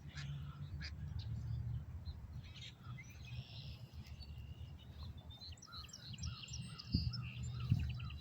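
Wild birds chirping and calling around a pond, with a run of short, evenly repeated falling notes in the second half, over a steady low rumble. Two brief thumps come near the end.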